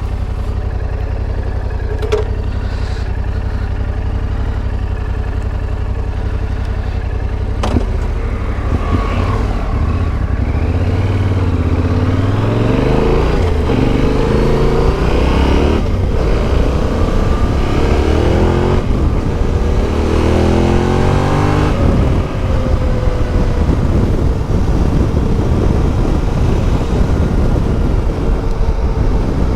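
Yamaha Ténéré 700's CP2 parallel-twin engine with an Akrapovic exhaust, running steadily with a couple of sharp clicks. About eight seconds in it pulls away, revs rising and dropping again and again as it accelerates through the gears, then settles into a steadier run for the last several seconds.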